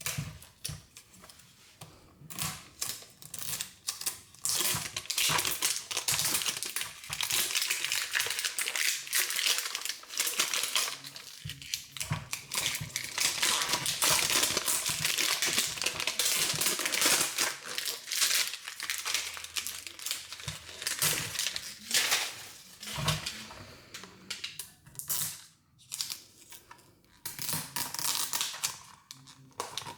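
Plastic packaging crinkling and tearing in close-up, in long spells broken by short pauses, as a Mini Brands surprise ball is unwrapped by hand.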